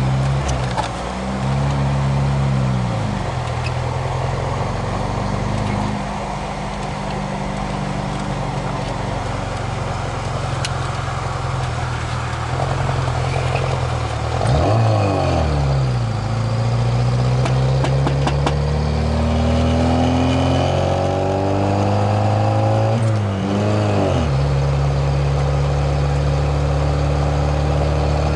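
VAZ 2107's inline-four engine pulling the car through the gears. Its pitch climbs under acceleration and drops at each gear change: about three seconds in, around fifteen seconds, and after a long climb about twenty-four seconds in. It then runs steadily at cruising speed.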